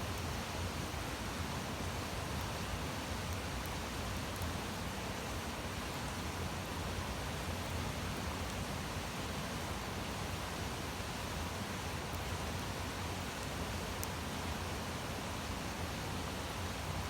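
Campfire burning: a steady hiss with a few faint pops and crackles now and then.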